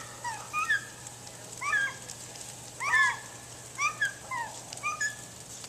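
Seagulls squabbling: a series of short, arched squawks, singly or in quick pairs, about every half second to a second.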